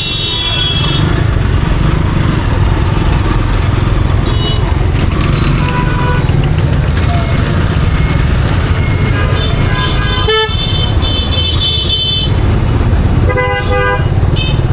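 Motorcycle riding through street traffic: a steady low rumble of engine and wind on the microphone, with vehicle horns honking several times, at the start, around ten seconds in and near the end.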